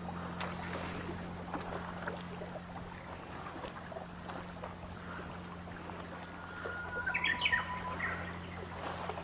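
Birds giving short, high chirps in the first few seconds and a louder call of several notes about seven seconds in, over a steady low hum from the fishing boat.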